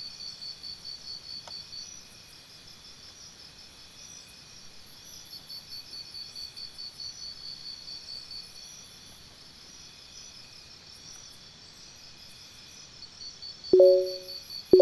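Crickets chirping steadily, a fast pulsing high trill, as a nature-sounds background. Near the end, short electronic beeps begin about a second apart, typical of a workout interval timer counting down.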